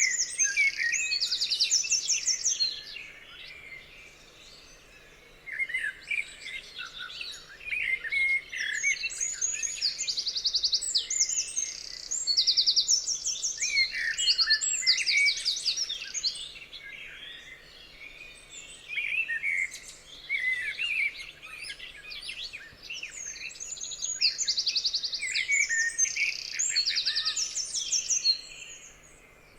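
Several songbirds singing at once: high, fast trilled phrases repeated again and again over assorted lower chirps and whistles, with a short lull a few seconds in.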